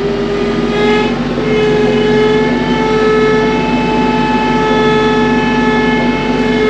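TYM tractor's engine and hydraulics working under load as the root grapple is driven into a brush pile: a steady droning note that rises slightly about a second in.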